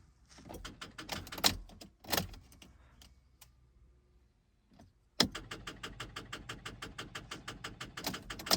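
A car's starter solenoid clicking: a few single clicks, then from about five seconds in a rapid, even chatter of about nine clicks a second, with no engine cranking. This is typical of a battery run down from the car sitting too long, still too weak even on a booster.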